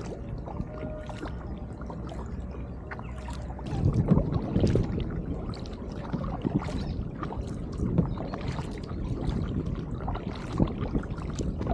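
Water sloshing and splashing against a kayak on the river. It turns louder and more uneven from about four seconds in.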